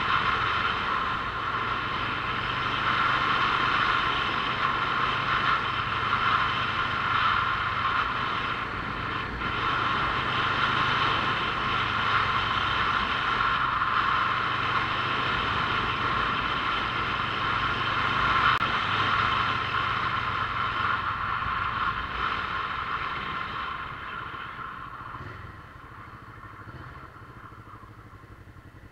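Motorcycle running on the road, its engine hum mixed with steady ride noise; the sound dies down over the last few seconds.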